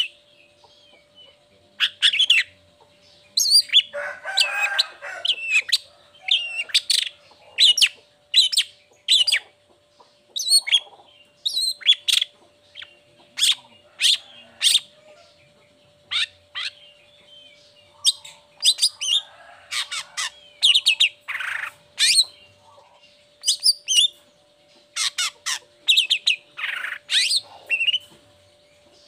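Long-tailed shrike (cendet) singing a long run of short, sharp, high calls, one or two a second, broken by harsh, rasping phrases about four seconds in and again around the twenty-first second. A faint steady hum runs underneath.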